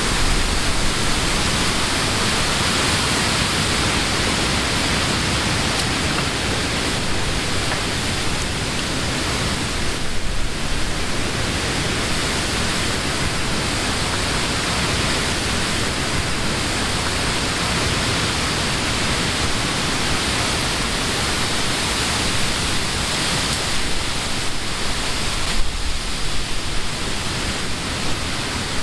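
Wind blowing through leafy summer trees: a steady rushing hiss of leaves, swelling slightly about ten seconds in and again near the end.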